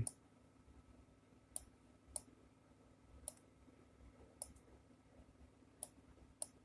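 Computer mouse clicking: six short, sharp clicks at irregular intervals, over a faint steady hum.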